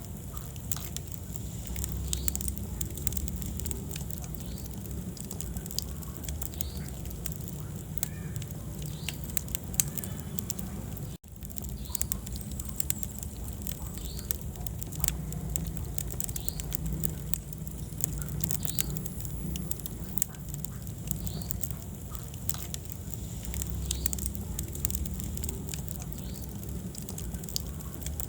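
Wood fire burning in a fireplace: a steady low rumble of flames with many sharp, irregular crackles and pops from the burning logs. About a third of the way in, the sound cuts out for a split second.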